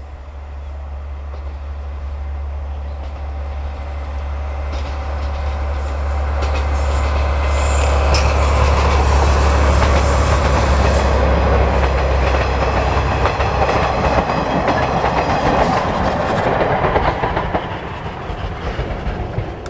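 A train passing close by. A diesel locomotive's engine drones low and steady, then dies away about two-thirds of the way through. Meanwhile the coaches' wheels clatter over the rail joints, growing louder as they go by, and ease off near the end.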